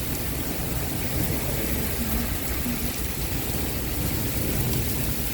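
Heavy rain pouring down steadily in a city downpour, an even hiss over a low rumble.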